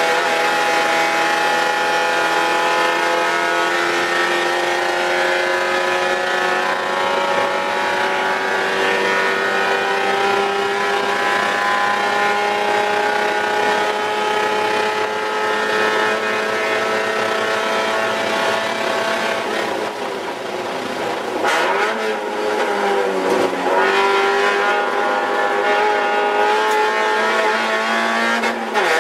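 Spec Miata race car's four-cylinder engine heard from inside the cockpit, revs climbing slowly for most of the stretch. Around twenty seconds in the pitch falls and wavers with a few sharp spikes as it slows for a corner. It then climbs again and drops suddenly near the end with an upshift.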